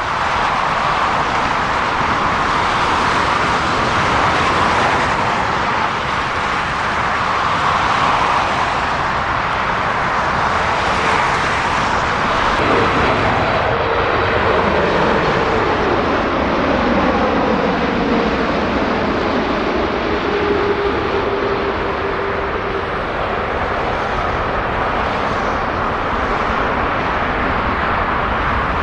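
Jet airliner passing close by, a loud steady jet noise with an engine whine that falls in pitch about halfway through as it goes past.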